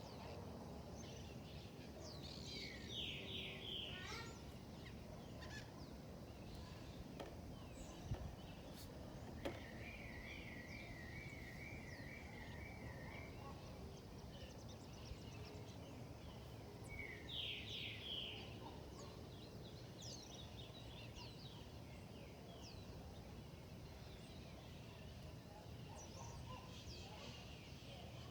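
Wild birds calling over a steady low background noise. Short bursts of quick notes come about three seconds in and again a little past halfway, and a wavering trill runs for about three seconds around ten seconds in. Two brief knocks sound near eight and nine seconds in.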